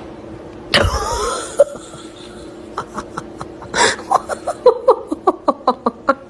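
A sudden loud, noisy outburst about a second in, then a person laughing in a quick run of short bursts, about five a second, from about four seconds on.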